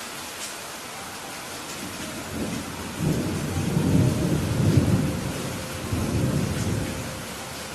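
Steady rain falling, with a roll of thunder rumbling in about two seconds in, loudest around the middle and fading away near the end.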